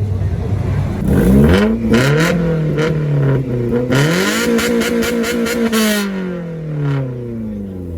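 Vehicle engine revving hard: a quick rev about a second in and another around two seconds, then a longer rev held high from about four to six seconds before the pitch slowly falls back toward idle.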